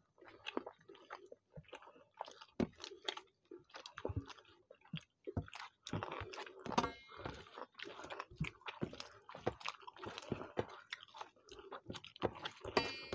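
Close-up chewing and wet mouth noises of two people eating rice with chicken curry by hand: many short, irregular clicks and squelches. Fingers mixing rice and gravy on steel plates add to it.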